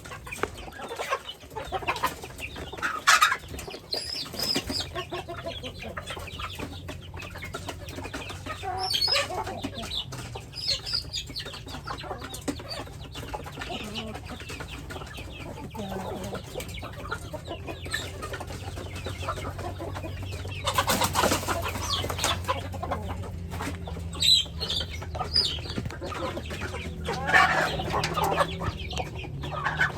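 Chickens clucking and calling in scattered short calls. A little over two-thirds of the way through there is a brief louder rustle, and a low hum runs underneath.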